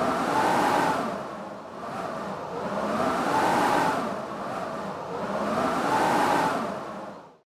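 Blizzard wind howling in gusts, a whistling pitch that rises and falls about every three seconds over a rushing hiss. It cuts off abruptly near the end.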